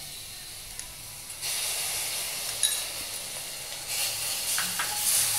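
Ginger paste sizzling in a hot, oil-free Amway Queen stainless steel sauté pan with whole spices, stirred with a spatula. The sizzle picks up sharply about a second and a half in and gets louder again near the end.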